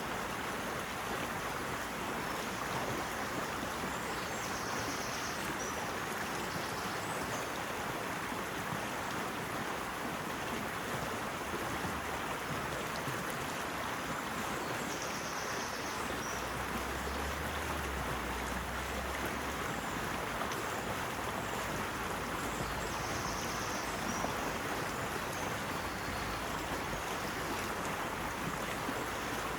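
Steady rushing of flowing water, an even hiss that does not let up.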